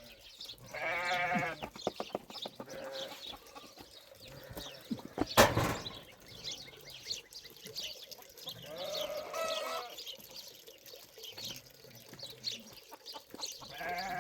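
Sheep bleating: a wavering bleat about a second in, another at about nine and a half seconds, and a third near the end. A single sharp knock about five and a half seconds in is the loudest sound.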